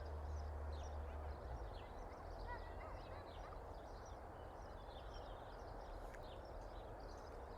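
Small birds chirping and calling in many short, quick notes, over a faint steady low rumble.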